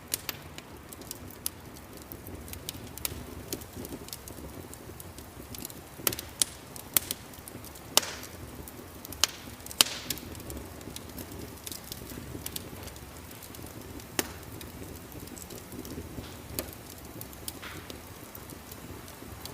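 Fireplace fire burning: a steady low rumble with irregular sharp crackles and pops, a cluster of louder pops around the middle.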